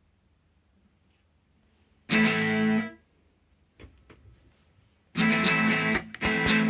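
Electric guitar, an Epiphone Les Paul Custom, played clean through a small practice amp. One strummed chord comes about two seconds in and is cut short. Then, from about five seconds in, rhythmic chord strumming begins with short muted gaps.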